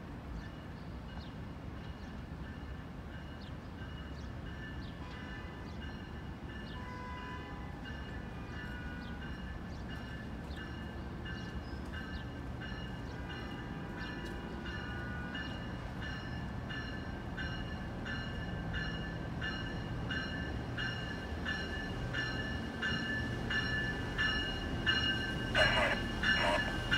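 Train approaching, its rumble growing steadily louder, with a regular high ticking and ringing above it and heavier clatter near the end.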